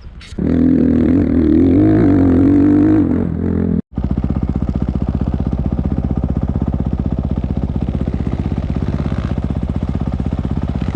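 Enduro motorcycle engine running loud, its pitch wavering as the throttle is worked. It cuts out abruptly just before four seconds in, then runs at a steady, even beat like an idle.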